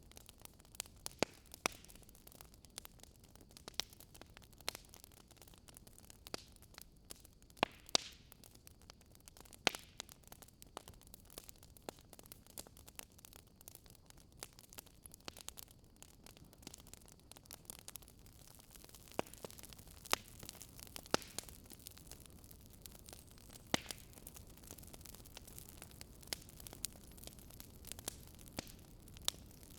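Wood fire crackling in a fireplace: scattered sharp pops and snaps over a soft steady hiss.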